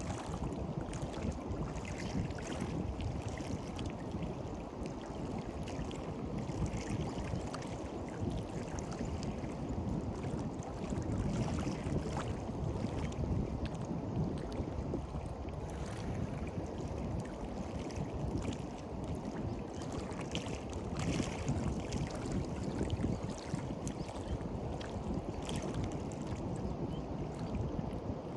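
Sea surf washing on a beach under a steady rumble of wind on the microphone, with no distinct events.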